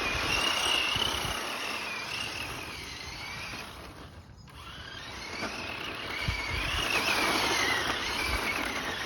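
Small electric motor of a toy car running with a high, wavering whine over rolling noise. It dies down briefly about four seconds in, then picks up again.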